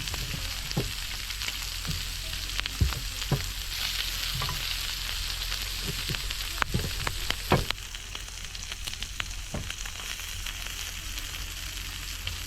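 Pork belly frying in a pan: a steady sizzle with scattered sharp clicks of a utensil against the pan, the sizzle easing slightly about two-thirds of the way through.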